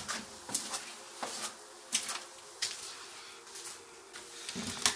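Footsteps: a run of sharp steps about one every two-thirds of a second.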